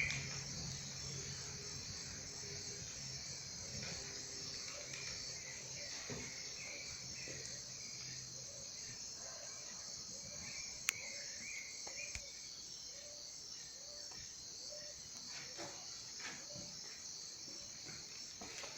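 Steady chirring of insects, crickets or similar, in a fine rapid pulse, with one sharp click about eleven seconds in.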